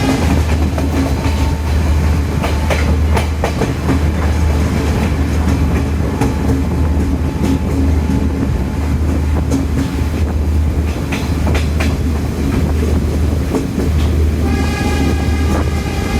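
Diesel multiple-unit express train running at speed: a steady low rumble with wheels clacking over rail joints. A high, steady ringing tone with several pitches comes in near the end.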